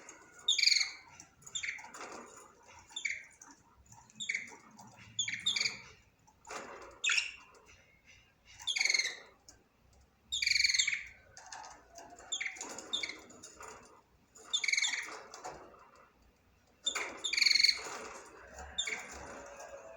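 Budgerigar (budgie) chirping: a run of short, high-pitched calls and warbles, coming in clusters with brief pauses between them.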